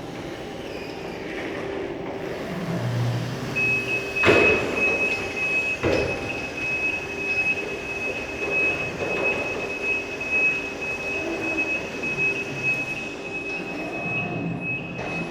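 Reach truck at work: over a low mechanical hum, a steady high-pitched tone sets in about four seconds in and holds. Two sharp knocks come at about four and six seconds in.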